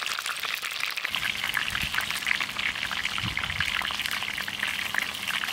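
Chicken leg quarters frying in hot oil in a pan: a steady crackling sizzle made of many small, quick pops.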